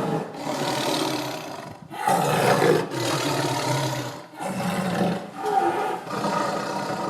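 Big cat roaring and growling in about four rough, drawn-out calls, each lasting one to three seconds.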